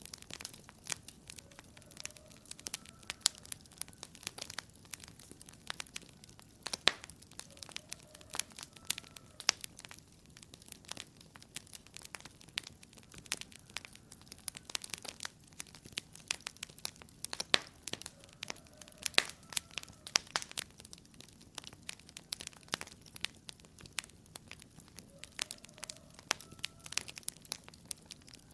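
Wood fire crackling in a fireplace, with many irregular sharp pops and snaps.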